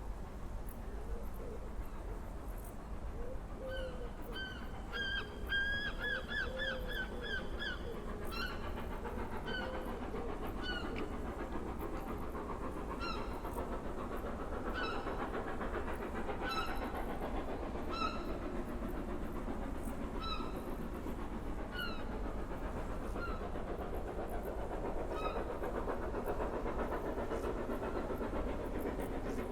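Steam train approaching, a low rumble and rushing noise growing steadily louder. Short high chirps sound over it: a rapid run of them about four seconds in, then single chirps every second or two until near the end.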